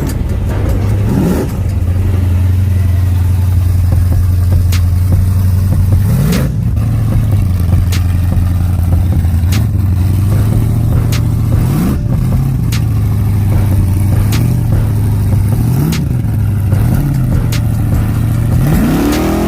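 A car engine running at a loud idle and being revved in short blips, about half a dozen times, each rising in pitch and dropping back.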